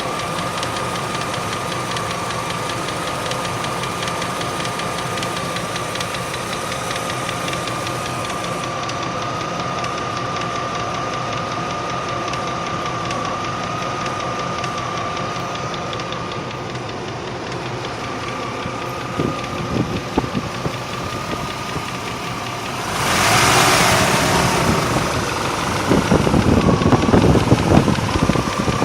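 Range Rover P38's 4.6-litre V8 idling with a rapid, steady ticking that the owner hopes is a tappet bouncing on a worn cam, though he fears a slipped cylinder liner. A little past two-thirds of the way in comes a brief rush of noise, and near the end louder irregular knocks.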